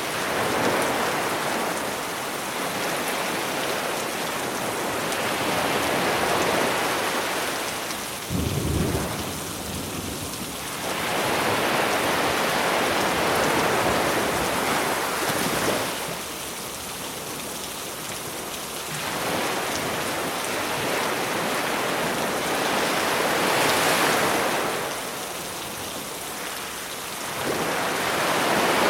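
Steady rain mixed with sea waves breaking on the shore, the surf swelling and fading every several seconds. A brief low thump comes about eight seconds in.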